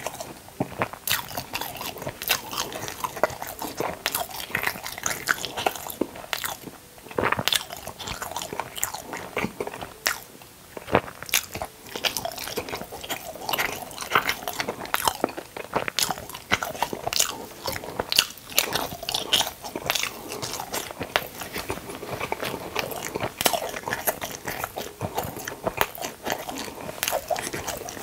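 Close-miked eating of a crisp, crunchy food: repeated sharp crunching bites and chewing, with a short lull about ten seconds in.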